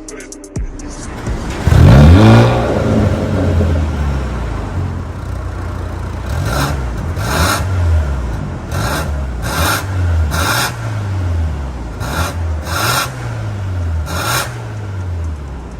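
Mercedes-AMG CLA35's 2.0-litre turbo four-cylinder (M260) through an MS-R valved catback exhaust: a loud burst about two seconds in as it fires up and flares, then the engine is revved again and again, its pitch rising and falling every second or two, with short sharp crackles between the revs.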